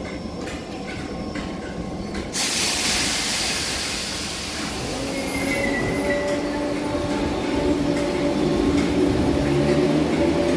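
Merseyrail electric train in an underground station: a low rumble with faint regular ticks, then a sudden loud hiss of air about two seconds in, then the traction motors' layered whine rising in pitch as the train gets under way.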